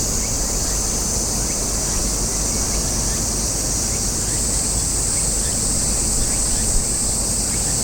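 Cicadas buzzing in chorus: a steady, high, even drone, over a low rumble.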